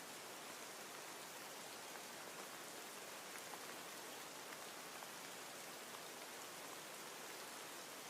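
Steady soft rain falling, an even hiss with faint scattered drops, as a rain-sound backdrop.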